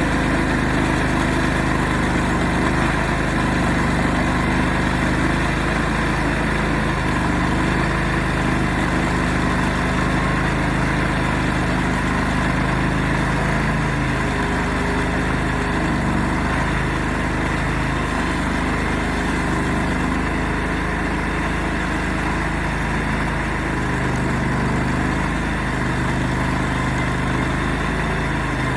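Portable sawmill engine running steadily under a constant load, its pitch dipping and wavering slightly now and then.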